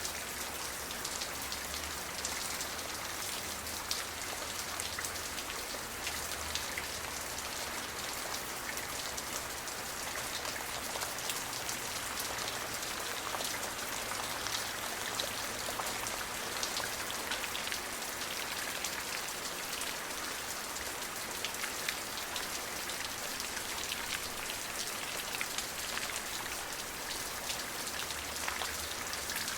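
Steady rain falling, an even hiss with many separate drops ticking on a surface and no thunder.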